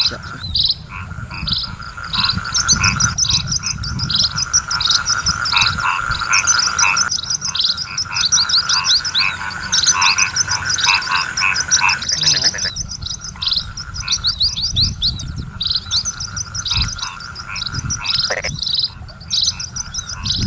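Chorus of many frogs calling, short calls repeating and overlapping, over a steady high drone.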